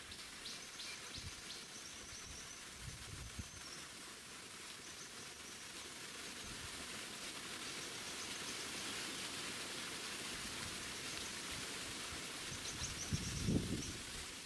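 Small songbird calling from the trap in short high chirps, in a bout early on and another near the end, over a steady outdoor hiss; a low buffeting thump, the loudest sound, comes near the end.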